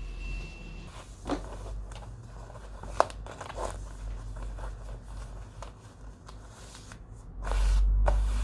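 Irregular sharp clicks and crinkly rustling over a steady low rumble, with one louder click about three seconds in and the rumble swelling near the end.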